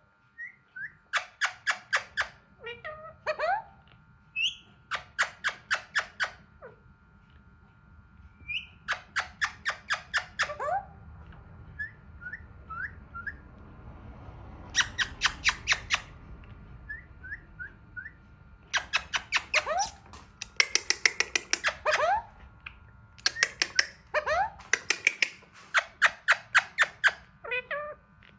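Alexandrine parakeet calling in repeated bursts of rapid harsh notes, each burst about a second long, with short soft chirps in between.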